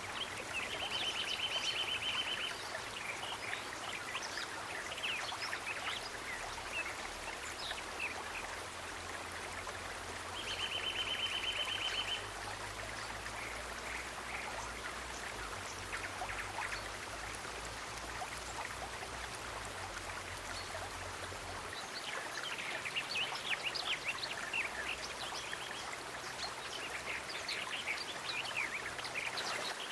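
Nature ambience of steadily running water with many short high bird chirps; twice a rapid high trill lasts about two seconds. A faint low rumble underneath stops about two-thirds of the way through.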